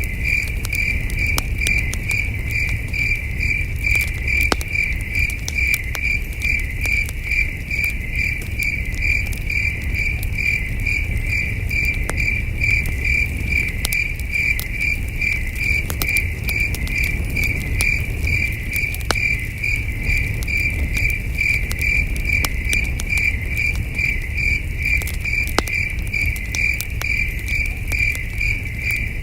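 Crickets chirping in a steady, evenly pulsed chorus, with a campfire crackling in scattered sharp pops over a low rumble.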